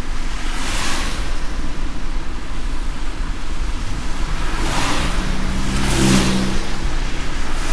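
Car driving on a wet road in light rain: a steady low road rumble, with louder wet swishes about a second in and again around five and six seconds in, the last carrying a brief low engine hum.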